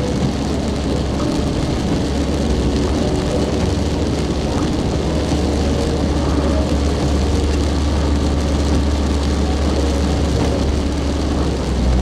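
Car running on the road: a steady low engine and road rumble.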